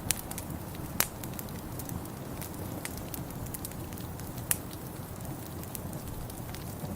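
Wood fire in a fireplace crackling, with irregular sharp pops and snaps (the loudest about a second in and again a little past the middle) over a steady low rumble.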